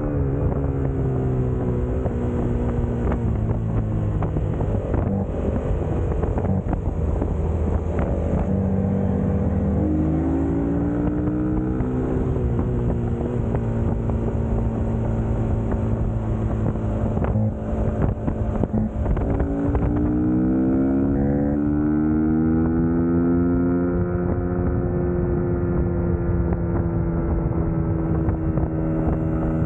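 Suzuki GSX-S150's single-cylinder engine running under way, its pitch holding steady for stretches and then dropping and climbing again twice as the bike slows and picks up speed, with wind noise on the microphone.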